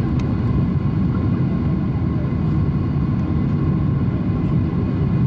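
Airliner coming in to land: a steady low rumble of jet engines and rushing air, with a faint steady tone above it.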